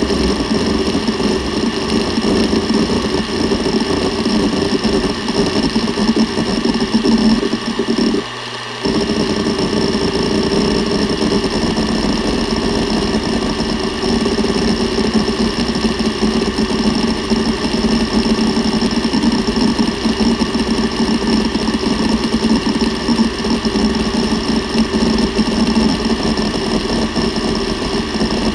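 Seagate Barracuda ES.2 ST31000340NS 7200 rpm hard drive seeking rapidly and continuously, a fast chatter of head movements over the steady hum of the spinning platters. The seeking pauses for about half a second roughly eight seconds in, leaving only the spindle hum.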